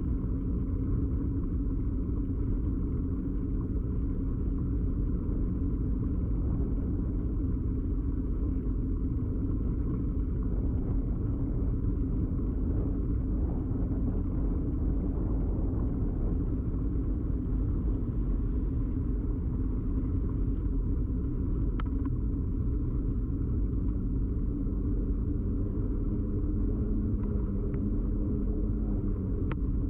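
Steady low rumble and vibration of a moving bicycle, picked up through a camera mounted directly on the bike, with two sharp clicks, one about two-thirds of the way through and one just before the end.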